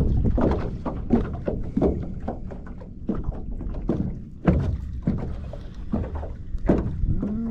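Small waves slapping irregularly against the hull of a small fishing boat drifting in choppy water, a few knocks a second over a low rumble of wind on the microphone.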